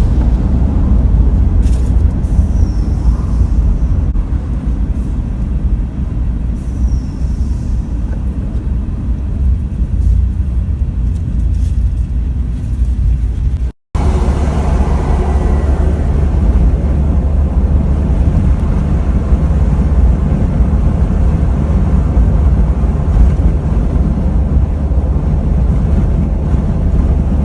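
Steady low rumble of a moving vehicle, engine and road noise heard from a camera mounted in the vehicle, cut off briefly about fourteen seconds in before running on.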